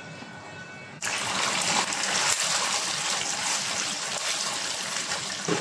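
Chicken pieces frying in hot oil in a wok: a loud, steady sizzle that starts abruptly about a second in.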